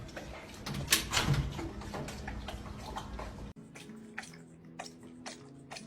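A dog lapping water, with splashy, irregular laps. About halfway through the sound cuts abruptly to quieter, sharper laps, roughly two a second, over a faint steady hum.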